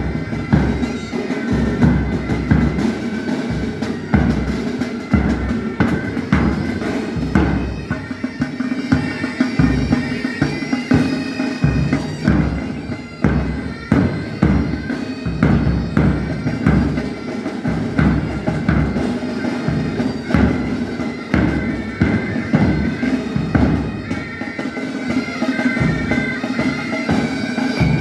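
Military pipe band playing: bagpipes sounding a steady drone under the melody, with drums beating a regular march rhythm throughout.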